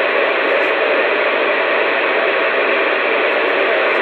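Steady static hiss with no breaks, thin and narrow like sound through a phone line or radio.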